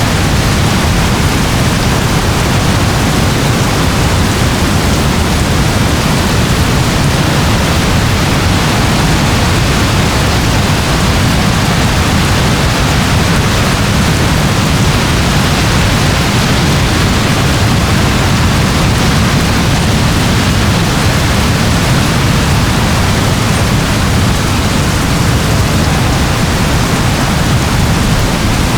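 Steady rain falling, an even hiss with a deep rumble underneath and no breaks or single drops standing out.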